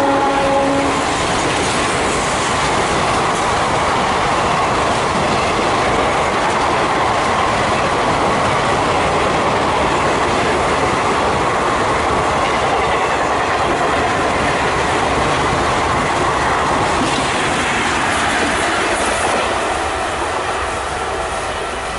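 Two Indian Railways passenger trains passing each other at speed close by, with loud, steady wheel-on-rail noise from the coaches, fading over the last few seconds as the nearer train clears.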